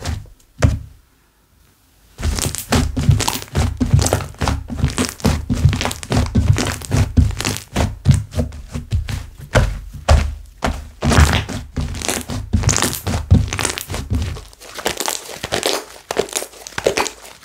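Slime being squished and kneaded by hand: a dense run of sticky thuds and quick clicking pops. It stops for about a second near the start, and near the end the thuds fall away, leaving lighter clicking.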